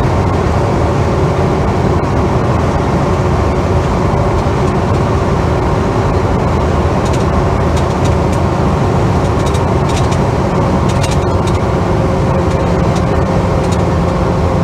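Interior noise of a Holden HK sedan under way: steady engine and road noise, with a few faint ticks or rattles.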